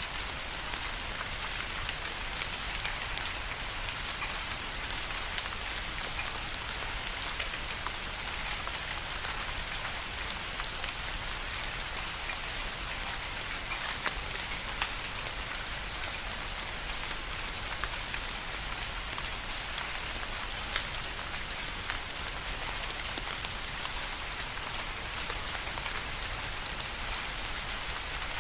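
Steady rain falling, an even hiss of rainfall with many scattered individual drops ticking on a surface.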